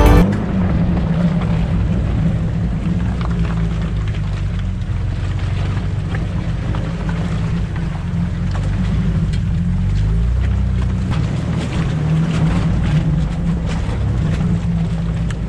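Four-wheel-drive vehicle's engine running as it drives, a low drone whose pitch rises and falls, with wind noise and scattered clicks and knocks.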